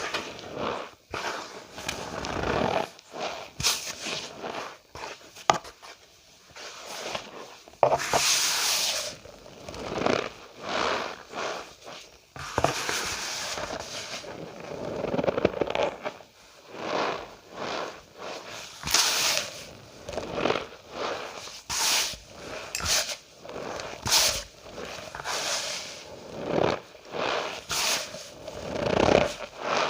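Cornstarch powder squeezed and pressed by hand, giving squeaky crunches in irregular bursts, one after another.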